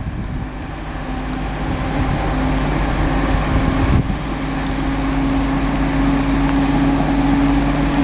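A vehicle's engine or motor running with a steady low hum that grows a little louder, over a background of steady noise.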